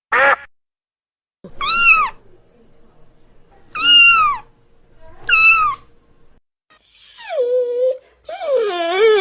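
Domestic cat meowing three times, each meow a separate rising-and-falling call. It is preceded by one short quack right at the start, and near the end a lower, rougher, drawn-out call from a different animal begins.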